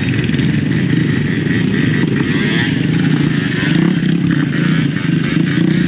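Motorcycle engine running steadily while under way, with a constant rush of noise over it.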